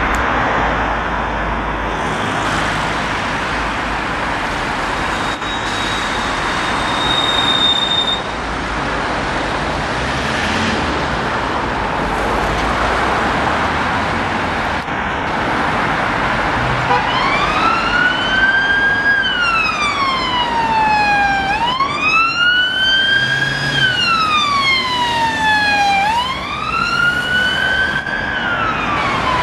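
Steady road and traffic noise, then about seventeen seconds in a police car's Premier Hazard 7009 siren starts on its wail tone: a slow glide up and down in pitch, one full rise and fall about every four and a half seconds.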